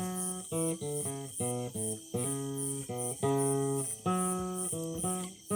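Acoustic guitar played without singing: a run of plucked notes and chords changing every few tenths of a second. A faint high pulse repeats evenly about three times a second above it.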